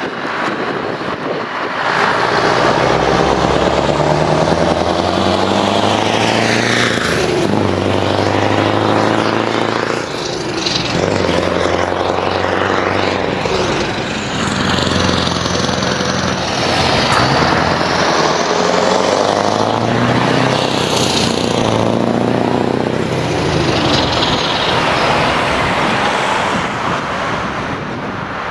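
Scania V8 truck with open exhaust pipes running loud under load, the engine note climbing and falling back several times as it pulls through the gears.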